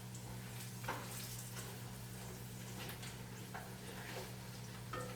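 A few faint, light knocks and clatters of kitchen utensils over a steady low hum.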